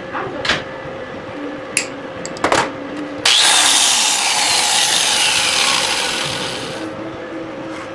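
A few sharp snaps of end-cutting nippers clipping welding rod, then an angle grinder starts and grinds metal, throwing sparks. Its whine falls in pitch as it winds down and stops near the end.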